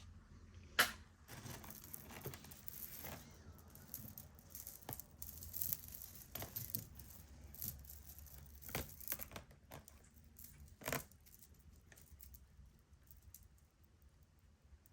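Costume jewelry being handled: scattered small clicks and rattles of metal and glass pieces with some crinkling, busiest for the first ten seconds or so, then quieter.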